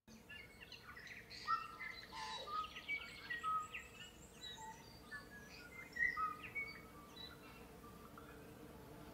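Several birds chirping and singing together in short, overlapping calls and whistles, over a faint steady background hum.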